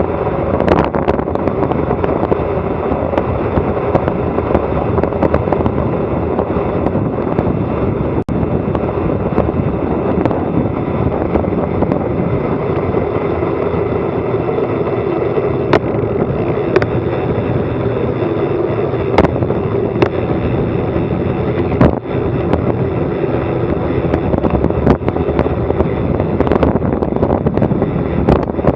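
Wind rushing over an action camera's microphone on a bicycle descending fast, a loud steady roar of wind and road noise, broken by a few sharp clicks and knocks.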